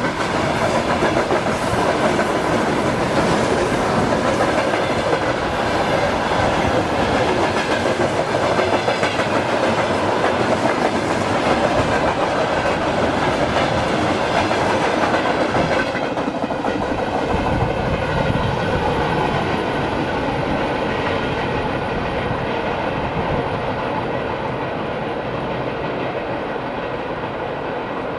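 Freight train wagons rolling past with a steady clickety-clack of wheels over rail joints. About halfway through the sound turns duller and then slowly fades.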